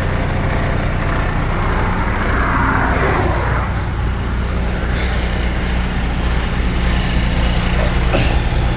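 Semi truck's diesel engine idling steadily, with a vehicle passing on the road about two to three seconds in and a sharp clack near the end.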